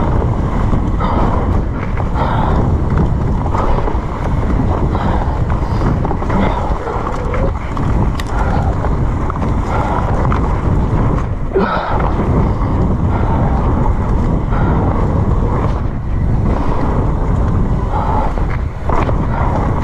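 Continuous wind noise buffeting the camera microphone, a steady low rumble with no distinct events.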